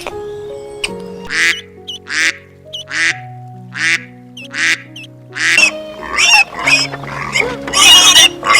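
A duck quacking repeatedly over background music: single quacks about once a second, then quicker, louder quacking in the last few seconds.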